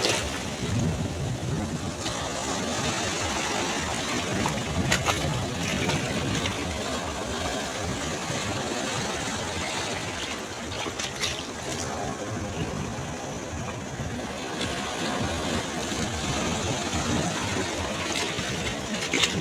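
Sea waves breaking on a beach: a continuous rush of surf with brief crackles of spray.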